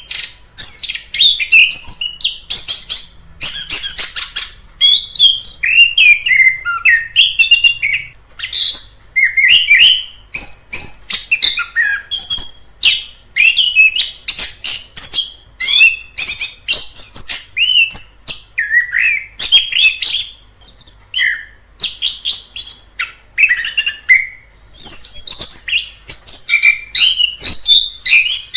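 Chestnut-capped thrush (anis kembang) singing a long, varied song of quick whistled phrases and rapid trills, in short bursts with brief gaps between them.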